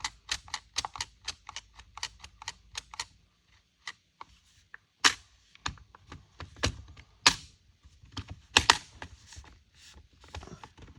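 Plastic clicks and snaps from an Echo CS-355T chainsaw's top handle as its throttle trigger and handle parts are worked by hand: a quick run of light clicks for about three seconds, then fewer, sharper snaps. The trigger is tight and catching in the partly reassembled handle.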